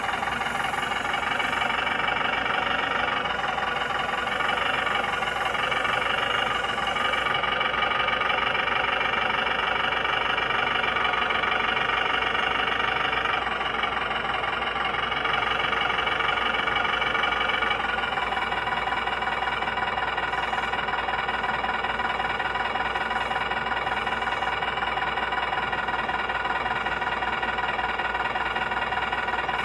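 Steady engine sound from a 1/14-scale RC semi truck running, changing in tone a few times.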